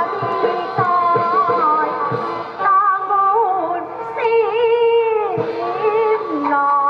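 Taiwanese opera (gezaixi) music: a melody on the accompanying instruments, with a sung note about four seconds in, held for about a second with a wide, wavering vibrato.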